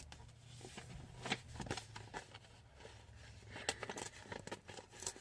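Paper mail being torn and rustled open by hand: faint scattered crinkles and tearing sounds, busiest in the second half, over a low steady hum.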